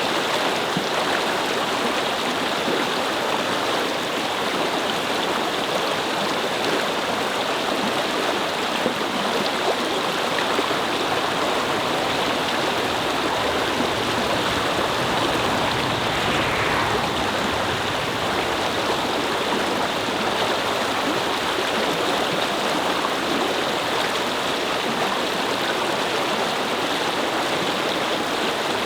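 Small brook babbling and gurgling over stones in a steady, unbroken rush of flowing water.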